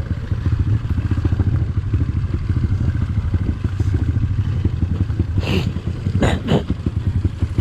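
Dirt bike engine running steadily, its firing pulses dense and low. Brief clattering scrapes come about five and a half and six and a half seconds in.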